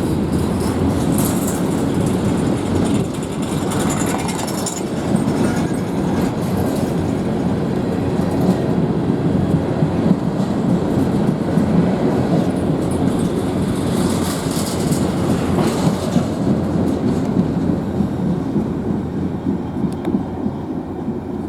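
Freight cars of a CN manifest train rolling past, a steady rumble with wheels clattering over the rail joints. Brief high-pitched wheel squeals come in a second or two in and again about two-thirds through.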